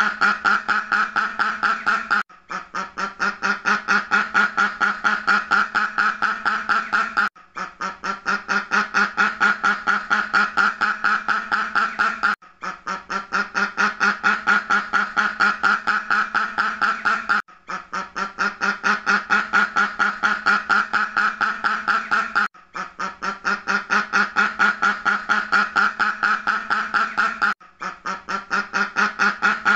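Duck quacking in a rapid, unbroken run of short quacks, with a brief break about every five seconds, after which the quacking starts again.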